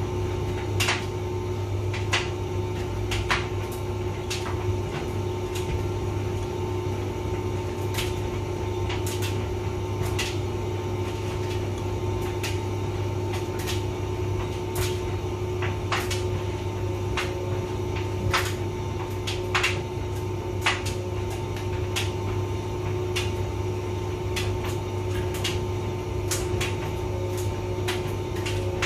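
Hotpoint vented tumble dryer running: a steady motor and fan hum with frequent irregular clicks and knocks from the load tumbling in the drum.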